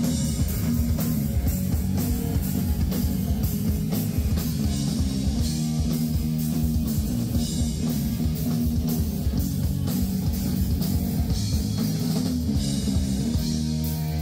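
Rock band playing an instrumental passage with guitar and drum kit at a steady level, without singing.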